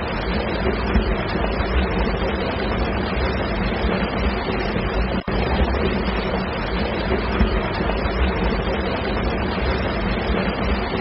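Steady, loud engine-like rumble with a dense noisy hiss over it, cut by a brief dropout about five seconds in.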